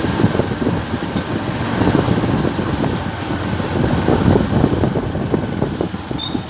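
Wind rushing over the microphone of a moving vehicle, a rough, uneven low rumble with road and engine noise underneath.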